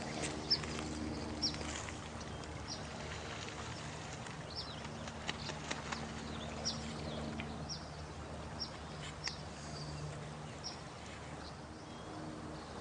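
Night nature ambience: a steady wash of noise like running water, with short, high, falling chirps about once a second and a low steady hum that fades in and out.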